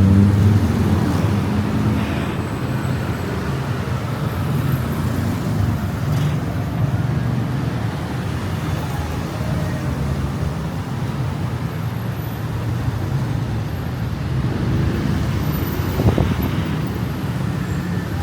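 Steady city road traffic of cars and other motor vehicles, with one short knock near the end.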